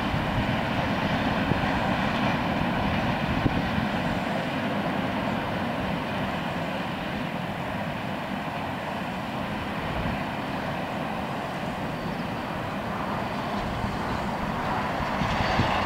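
Long freight train of container wagons rolling along the track, a steady rumble of wheels on rail, growing a little louder near the end.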